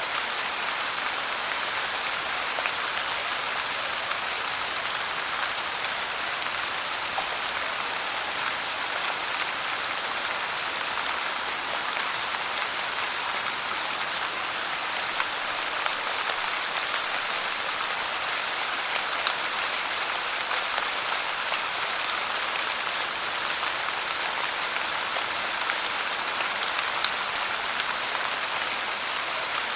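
Steady rain falling on a surface, a dense even patter with small scattered drop ticks.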